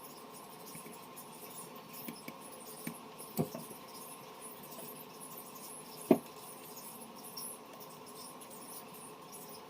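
Light clicks and small taps of phone parts and hand tools being handled, over a steady faint hiss, with two sharper taps about three and six seconds in.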